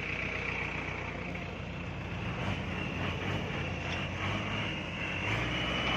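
Farm tractor's diesel engine running steadily, its note stepping up slightly about five seconds in.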